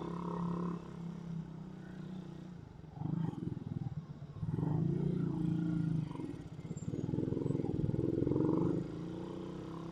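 Suzuki Raider 150 motorcycle engine running under way, revving up three times between steadier, quieter stretches.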